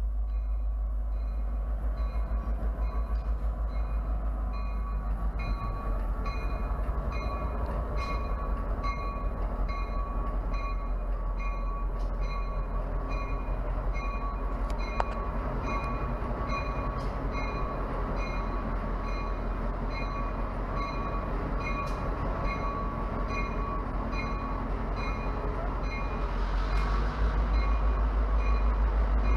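A model train running on a layout, with a steady low hum and a light click repeating a little under two times a second. It grows slightly louder near the end.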